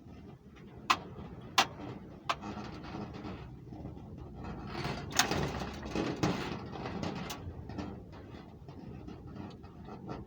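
Sharp clicks and handling noise from hands working on a small four-stroke gasoline model engine that will not start. Three crisp clicks come in the first couple of seconds, then a stretch of rustling with more clicks. No engine is running.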